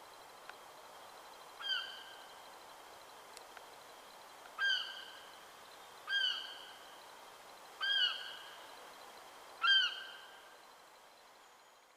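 A bird calling five times, a short sharp call every one and a half to two seconds, each trailing off with an echo.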